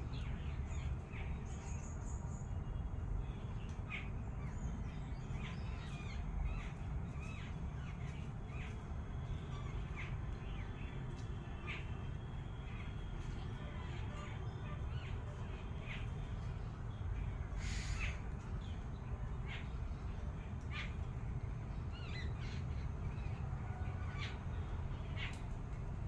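Birds calling in a garden: many short, scattered calls throughout, over a steady low rumble.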